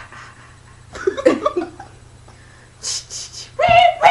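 People laughing breathily in short wheezing, hissing bursts, with a louder voiced outburst of laughter near the end.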